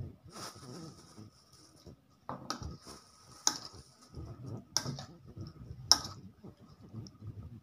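Pork pieces being mixed in their marinade in a plastic bowl, with soft wet stirring and four sharp clinks of a metal spoon against the bowl about a second apart.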